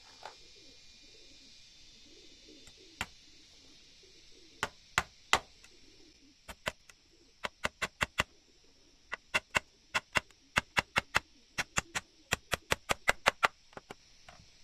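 Hammer blows on wood: a few single strikes at first, then quick runs of about three blows a second, the loudest near the end.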